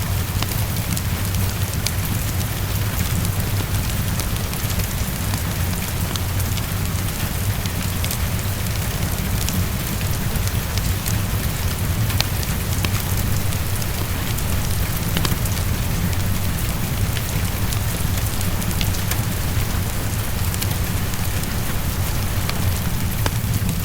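Heavy rain falling steadily, with a deep low rumble under it and scattered sharp crackles of a wood fire in a fireplace.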